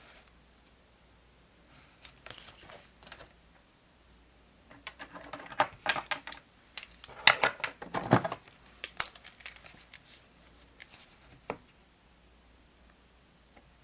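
Small desk sounds of stationery being handled for diary decorating: a run of quick clicks, taps and paper rustles, busiest in the middle, then one sharp tap near the end.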